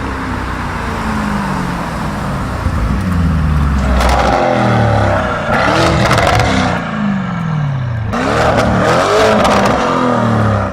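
Lamborghini Urus twin-turbo V8 with a Fi valvetronic catback and catless downpipes, running with its exhaust valves open. The engine revs and pulls hard, its pitch repeatedly rising and dropping back. It gets loudest in two long stretches, about four and eight seconds in.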